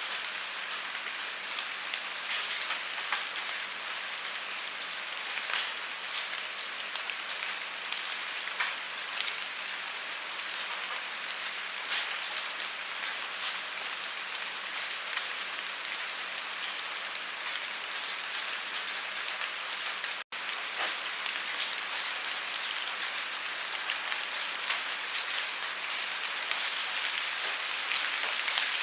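Steady rainfall with many scattered individual drop hits. The sound cuts out completely for a split second about twenty seconds in.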